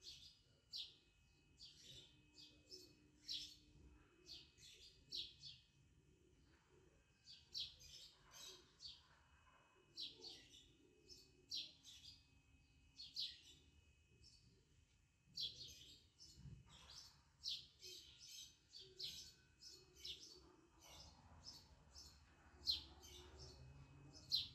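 Faint chirping of small birds, short high calls repeating irregularly, sometimes several in quick succession, over near-silent room tone.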